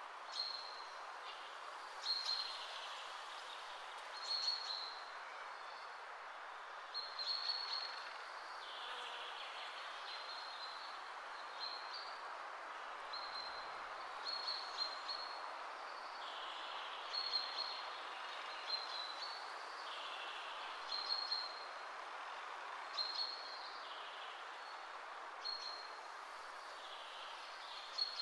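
Short high chirps repeating every second or two, like a bird calling, over a steady hiss.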